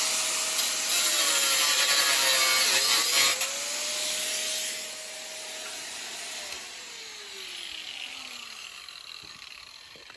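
Electric angle grinder grinding steel, a loud hissing grind for the first few seconds with the motor's pitch dipping under load about three seconds in. The grind eases off, and then the grinder is switched off and winds down, its whine sliding steadily lower before it stops.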